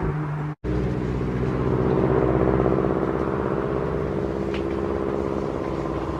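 Car exhaust running at a steady idle with a low, even pulsing, swelling slightly about two seconds in. The sound drops out completely for a moment about half a second in.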